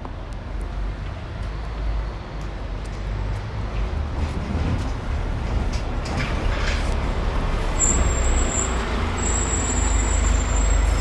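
A bus approaching along the road, its engine rumble and tyre noise growing louder. A high, thin steady whine comes in about eight seconds in.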